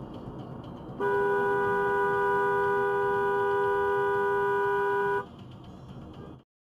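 Car horn held in one long blast of about four seconds over road noise, starting and stopping abruptly.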